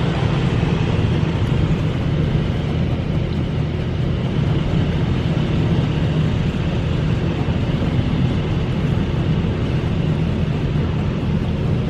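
D&S IQ Express touch-free car wash's high-pressure water jets spraying the car body, heard from inside the cabin: a loud, steady rush of spray over a low rumble.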